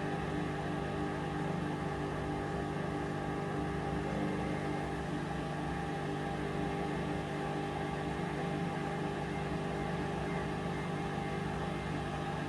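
Hoover Dynamic Vision washing machine running mid-cycle: a steady motor hum with a layered whine that does not pause or change.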